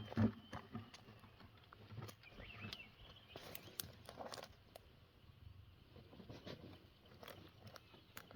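Scattered light knocks and clatter of household things being handled and moved during tidying up.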